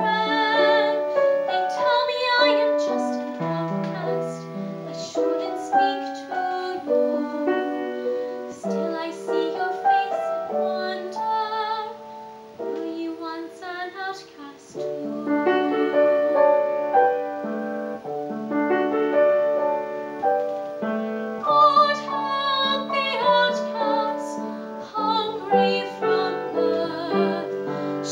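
A young teenage girl singing a musical-theatre ballad solo with vibrato, over piano accompaniment. A softer, quieter passage comes about halfway through.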